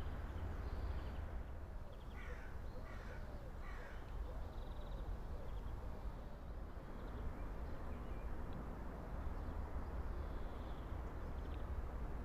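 A crow caws three times in quick succession about two seconds in. Small birds chirp faintly throughout, over a steady low rumble.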